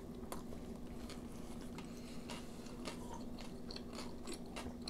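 Close-up eating sounds: people chewing, with scattered short wet mouth clicks and smacks over a faint steady hum.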